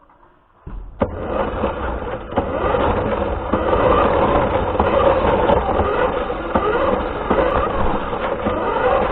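An RC car driving, heard through a camera mounted on it: after a near-quiet start, a dense, steady rumble of motor and wheels begins just under a second in, with a sharp click at about one second.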